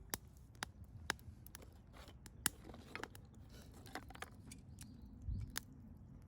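Wood campfire crackling, with irregular sharp pops over a low steady rumble. A brief low thump comes a little after five seconds in.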